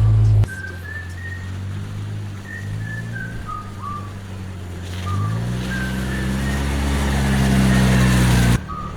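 A person whistling a tune in short clear notes that step up and down, over a low steady drone that rises in pitch about halfway through.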